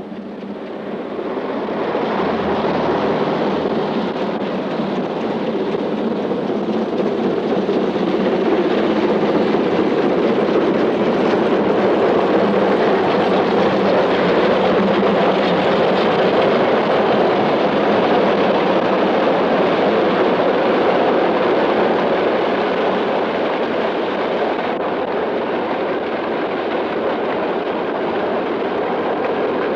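Passing train: a steady, even rumbling noise that swells in over the first two seconds and eases slightly near the end.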